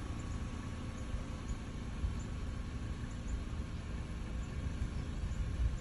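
Outdoor background noise: a low, uneven rumble under a steady hiss, with faint, short high chirps scattered through it.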